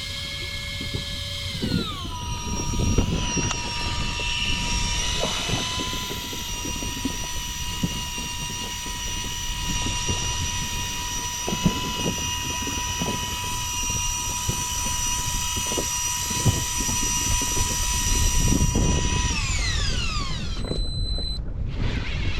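A small electric motor whining at high pitch. Its pitch drops about two seconds in, holds steady for a long stretch, then falls away as the motor winds down near the end, and a short high electronic beep follows.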